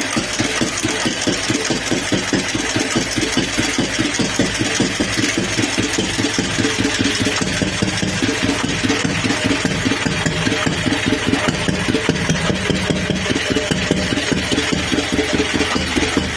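Vintage Bernard D1 stationary engine running steadily at idle, with an even, regular firing beat.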